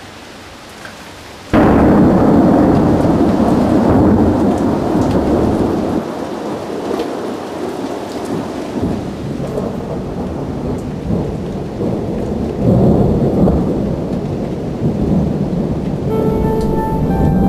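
Rain hissing steadily, then about a second and a half in a sudden loud thunderclap from a lightning strike, rolling on as a long rumble that swells again about two-thirds of the way through. Music starts faintly near the end.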